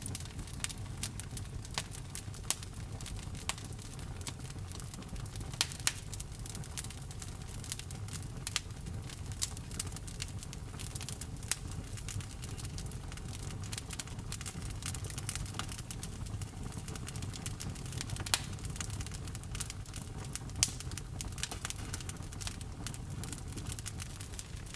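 Wood fire burning: a steady low rumble of flames with frequent irregular crackles and a few louder pops.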